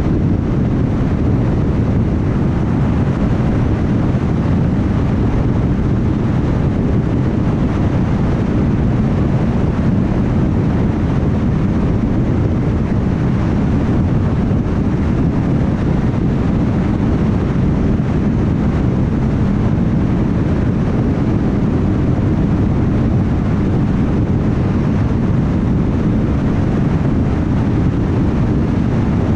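Car driving at steady highway speed: constant tyre roar and wind noise, deepest in the low end, with no change in pitch or level.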